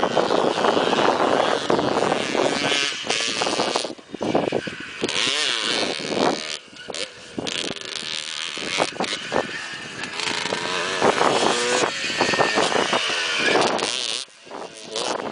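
Motocross bike engines revving up and down as the bikes ride the track, the pitch rising and falling repeatedly, with brief lulls.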